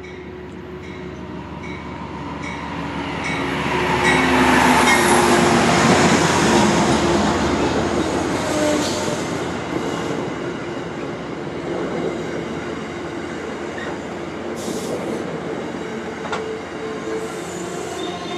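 A train rolling past on steel rails, swelling to its loudest a few seconds in and then carrying on with a steady rumble of wheels on track, with steady wheel squeal from the steel wheels.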